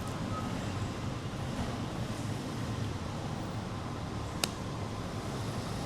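Steady low rumble of outdoor city background noise, with a single sharp click a little over four seconds in.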